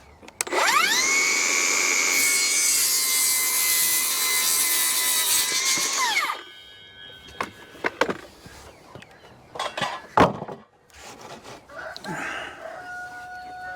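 Electric power saw spinning up with a rising whine and cutting through a wooden framing stud for about five seconds, then winding down. A few sharp knocks of lumber being handled follow.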